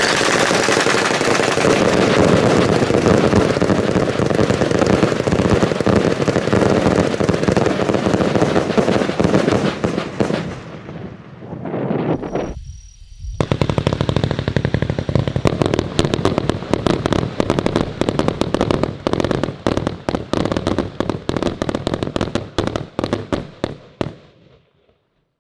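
Argento Rapid Thunder 100-shot 18 mm firework battery firing a fast, continuous stream of bangs that blur into a machine-gun-like rattle. About twelve seconds in the firing briefly drops away, then resumes as more distinct, spaced cracks that thin out and stop shortly before the end.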